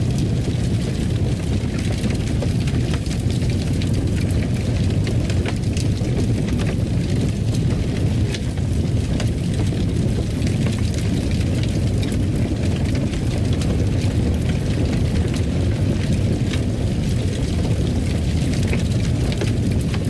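Fire burning in a fireplace: a steady low roar with scattered small crackles and pops.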